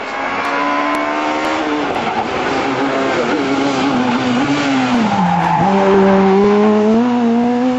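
Rally car engine held at high revs through a drifting hairpin, with the tyres skidding. Its pitch wavers, drops to its lowest about five seconds in, then climbs again as the car powers out, loudest just after.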